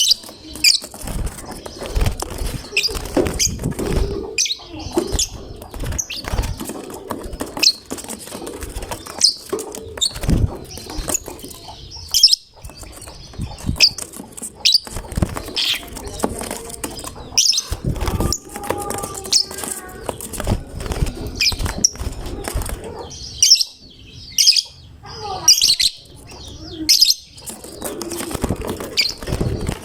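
Lovebirds giving short, sharp, high-pitched chirps again and again at an irregular pace, mixed with bursts of wing flapping and knocks.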